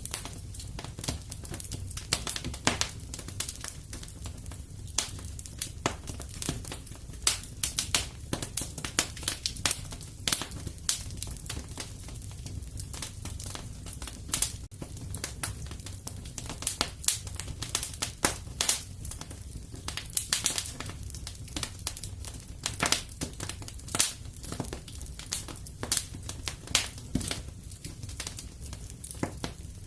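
Wood fire in a fireplace crackling, with irregular sharp pops, some louder than others, over a steady low rumble.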